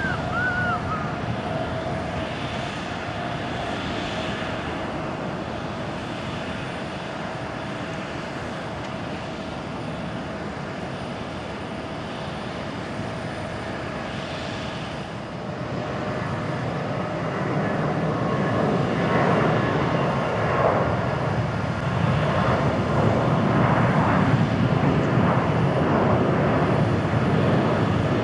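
Boeing 777-300ER's GE90 jet engines at takeoff power, fading away steadily. From about halfway, an Airbus A321-200's jet engines at takeoff thrust take over, their roar growing louder toward the end.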